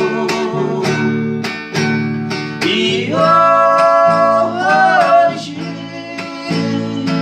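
Acoustic guitar strummed in a steady rhythm under a sung ballad. About three seconds in, a singer holds one long note on 'E', then sings 'hoje'.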